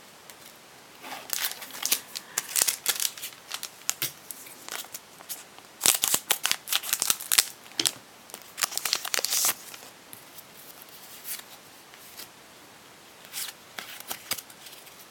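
Foil wrapper of a Pokémon card booster pack being torn open and crinkled by hand, in bursts of crackling over the first nine seconds or so, then a few short rustles near the end.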